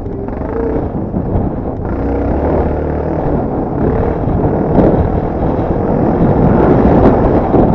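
Dirt bike engine running under throttle while riding, mixed with wind rushing over the microphone, growing louder through the second half.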